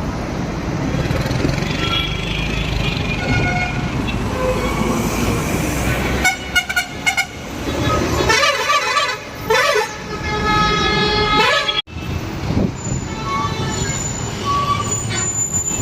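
Bus engine and road rumble, then about six seconds in a run of vehicle horn blasts: a quick stuttering burst of toots, a warbling multi-tone horn, and a long steady honk.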